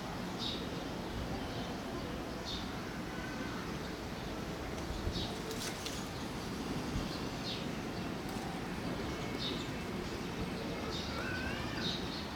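Birds chirping outdoors: short, high calls every second or two over a steady background hiss, with a couple of wavering calls near the end.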